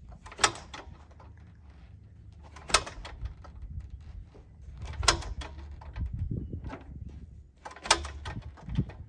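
The 1939 Piper J3 Cub's engine being turned over by hand at the propeller four times, each swing giving one sharp crack about every two and a half seconds, without catching. It is not picking up fuel.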